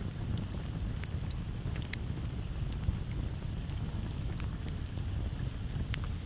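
Campfire burning: scattered sharp crackles and pops over a steady low rumble of flame, with one louder pop about three seconds in. A steady high cricket trill runs underneath.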